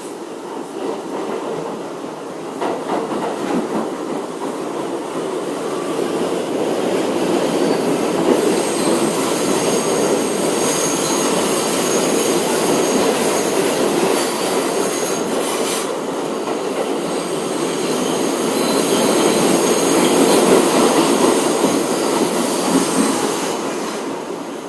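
R62A subway car running on the rails, a steady rumble that grows louder a few seconds in. High-pitched wheel squeal comes in over it twice, around the middle and again near the end.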